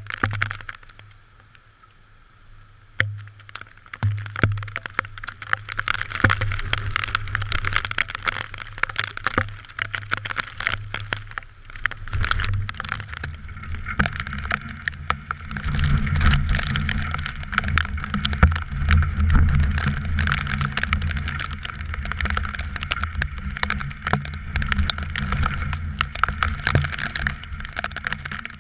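Typhoon rain and wind on a GoPro: dense pattering of raindrops with gusts buffeting the microphone, and a heavy low wind rumble that sets in about twelve seconds in and stays.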